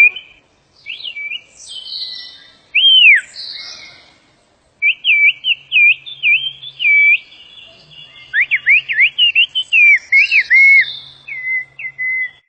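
Whistled Turkish, the 'bird language' whistle speech: a person whistling loud phrases of single notes that glide up and down, pausing for about a second near the middle, then rattling off quick runs of short rising and falling notes.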